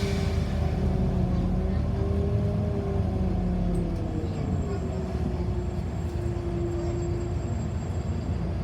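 City bus heard from inside the passenger cabin while under way: a steady low rumble with a drive whine that slowly falls in pitch as the bus eases off.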